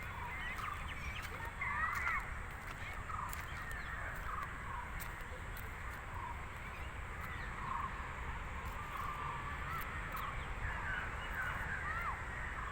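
A chorus of many birds calling at once: short, overlapping chirps and squawks that rise and fall in pitch, continuing without a break.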